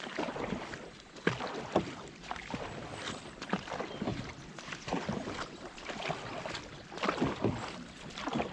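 Dragon boat crew paddling: paddle blades dipping and splashing in the water again and again, irregularly, over a steady wash of water along the boat.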